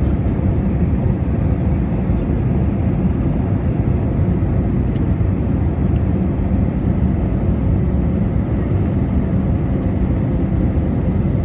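Airliner cabin noise: a steady, loud low rumble of engines and rushing air heard from inside the passenger cabin.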